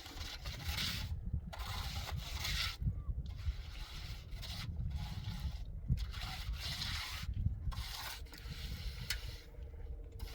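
A hand tool scraping over a rough surface in repeated strokes about a second long, with short pauses between them, over a low rumble.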